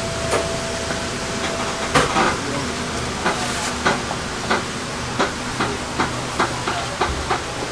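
Passenger train standing at or easing out of a station: a steady hiss and low rumble, with a steady tone that stops about two seconds in at a loud click, then a run of sharp clicks roughly every half second.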